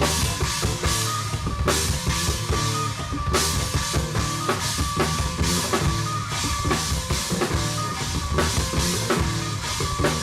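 Rock band playing live, led by a full drum kit with bass drum and repeated crash-cymbal hits.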